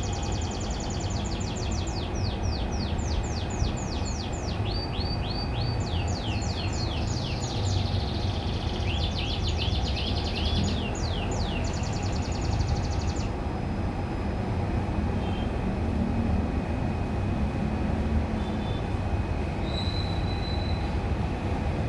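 Domestic canary singing a rolled song of fast trills, each a run of quickly repeated sweeping notes, switching to a new trill every second or two and stopping a little past halfway. A steady low rumble runs underneath throughout.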